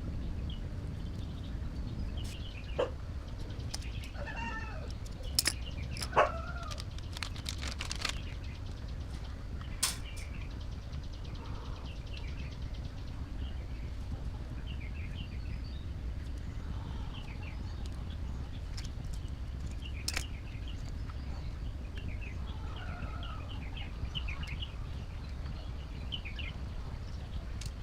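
Scattered bird chirps over a steady low rumble, with a few sharp clicks or taps, the loudest about six and ten seconds in.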